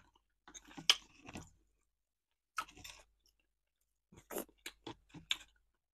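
A person chewing food close to the microphone, heard as short wet mouth clicks and smacks in separate bursts: a cluster about a second in, a brief one near the middle, and several more near the end.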